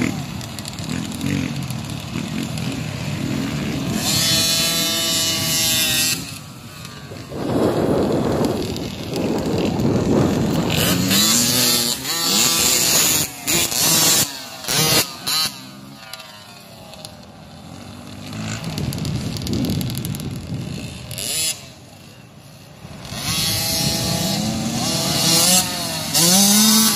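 Motocross dirt bike engines revving up and down as the bikes ride by, the engine note rising and falling in pitch and swelling louder with the near passes.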